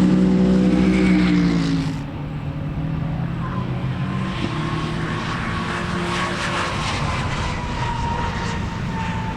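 Racing car engine passing, its pitch falling over the first two seconds. About two seconds in the sound changes abruptly to a quieter, steadier engine drone whose pitch slides slowly.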